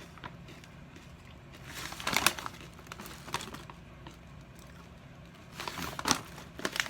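Crunching on Cape Cod Waves honey barbecue potato chips: two bouts of crisp crunching bites, one about two seconds in and another near the end, with a single crunch between.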